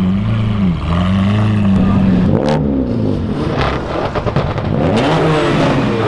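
High-performance car engine accelerating hard, its pitch holding, dipping and then rising and falling through gear changes, with a few sharp exhaust cracks near the middle.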